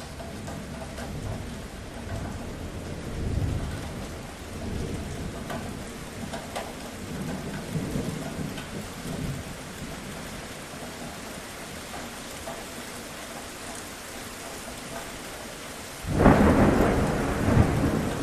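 Steady rain with thunder rumbling low in the background, swelling twice. Then a sudden, loud thunderclap breaks in about two seconds before the end.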